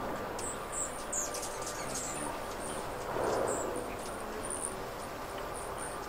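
Many short, very high, thin bird chirps, scattered irregularly, over a steady background rumble that swells briefly about halfway through.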